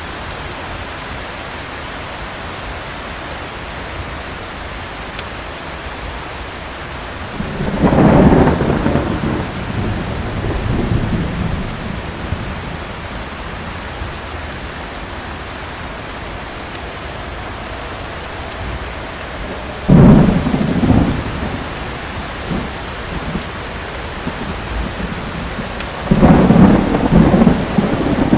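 Steady heavy rain with three peals of thunder: a long rolling rumble about a quarter of the way in, a sudden crack and rumble about two-thirds through, and another rolling peal near the end.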